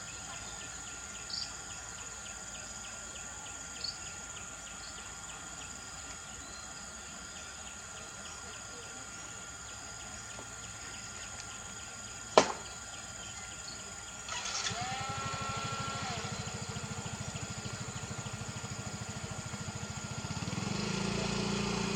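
Insects stridulating in a fast, even ticking series, with a few short chirps over it. About halfway through there is one sharp click; then a small engine starts running and grows louder near the end.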